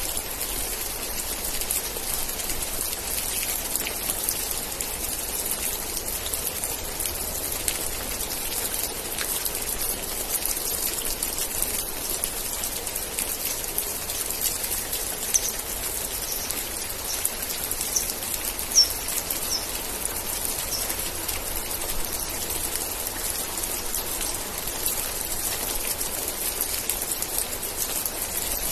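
Steady heavy rain hissing, with dense patter of individual drops. About halfway through, a bird gives a quick run of about seven short, high chirps.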